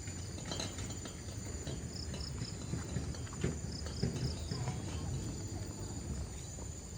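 Insects chirping in quick runs of short pulses over a steady high buzz, with walking footsteps on a path.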